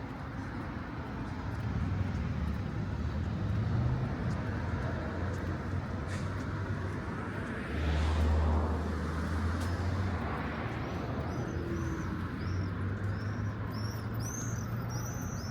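City street traffic: a steady rumble of passing cars, with one vehicle passing closer and louder about eight seconds in. Small birds chirp repeatedly near the end.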